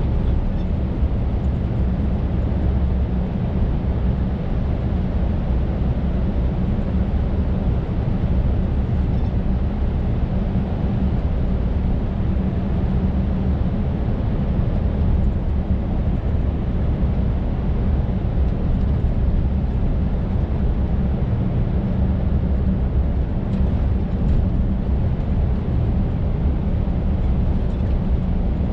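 Scania R580's 16-litre V8 diesel engine running steadily as the truck drives, heard from inside the cab with tyre and road noise.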